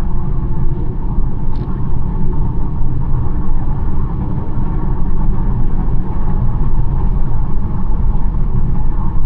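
BMW 1 Series driving at a steady speed: a steady low rumble of road and engine noise.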